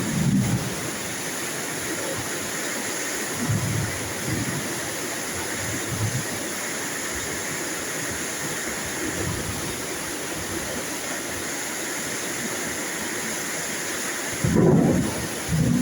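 Rain falling steadily in a constant hiss, with short low rumbles of thunder every few seconds, the loudest pair near the end.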